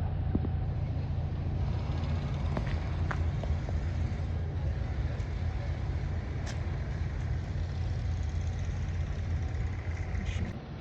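Steady low rumble of a moving vehicle, with a few light clicks and a brief higher sound near the end.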